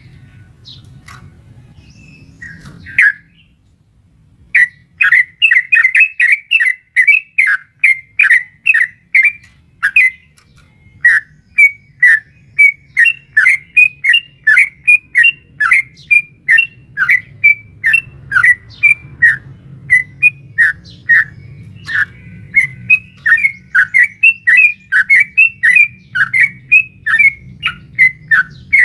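Yellow-vented bulbul (trucukan) singing a long, fast run of bubbly notes, about three a second, after a single note about three seconds in, over a faint low hum.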